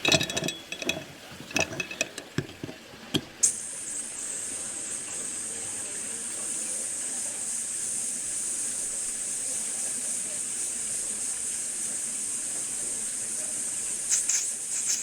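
Butane-propane mixed gas hissing steadily as it is transferred from a refill canister into a model steam engine's gas burner tank. Before it come a few clicks and knocks as the canister nozzle is pressed into place. The hiss starts about three and a half seconds in and stops near the end as the tank fills up.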